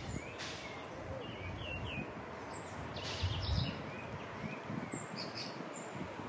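Small birds chirping, repeated short rising notes, over a steady outdoor background hiss, with a low rumble a little past halfway.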